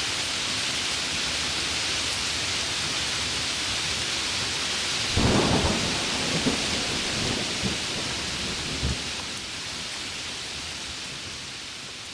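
Steady hiss of heavy rain. About five seconds in, a sudden thunderclap breaks out, followed by a few seconds of rolling rumbles. After that the rain gradually gets quieter.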